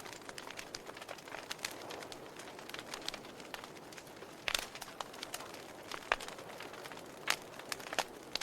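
Wood fire crackling in a fireplace: a soft steady hiss with many irregular sharp pops and snaps, a few louder pops in the second half.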